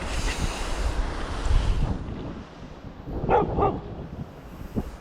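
Wind buffeting the microphone, with two short barks from a dog about three and a half seconds in.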